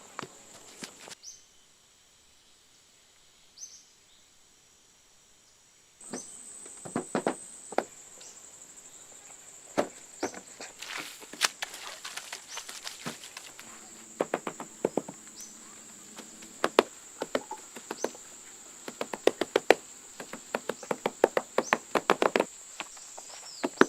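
Irregular sharp knocks and taps, dense from about six seconds in, over a steady high-pitched insect drone.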